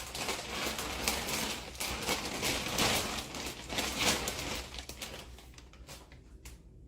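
Plastic vacuum-storage bag rustling and crinkling as it is handled, with irregular crackles that fade out about two-thirds of the way through.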